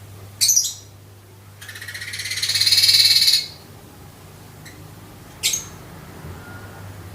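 Streaked weaver singing: a short sharp note, then a rapid buzzing trill that grows louder for nearly two seconds and stops abruptly, and another short sharp note near the end.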